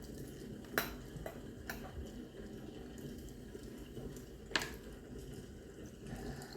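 A few sharp clicks and taps of cutlery against dishes while eating, the two loudest about a second in and after about four and a half seconds.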